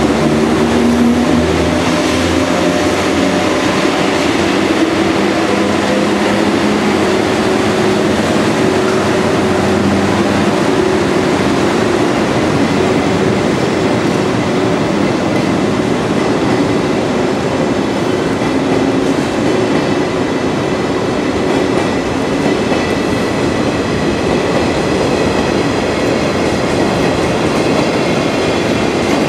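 JNR Class EF81 electric locomotive pulling the 24-series Hokutosei sleeper train out of the station. The locomotive's steady hum comes first, then the coaches roll by with continuous wheel-on-rail noise, and a thin high whine joins in the second half.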